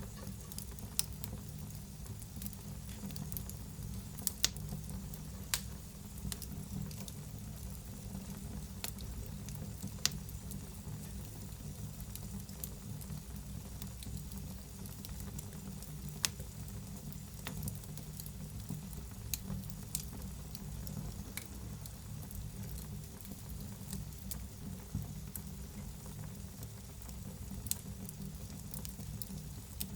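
Wood fire burning in a fireplace, hissing steadily under a low rumble, with frequent sharp crackles and pops at irregular intervals.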